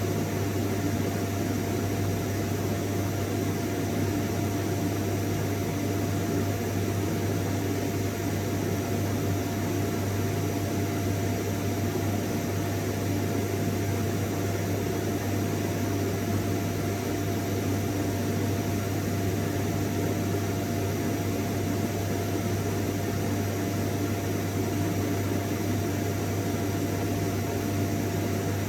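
Vacuum cleaner running steadily, a constant motor drone with a steady hum and whoosh of air that does not change.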